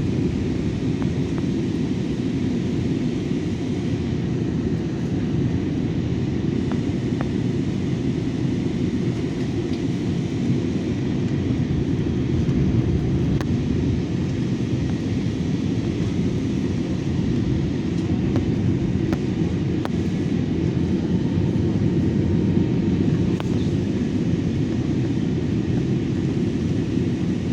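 Steady rumble of an airliner in flight heard from inside the passenger cabin: engine and airflow noise, deep and unchanging.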